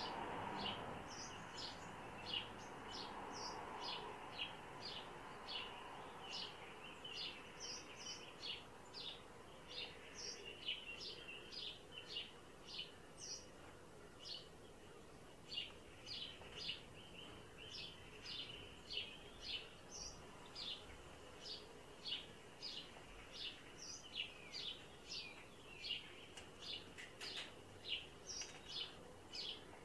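A bird gives short, sharp, high calls over and over, about two a second, over a faint steady high tone.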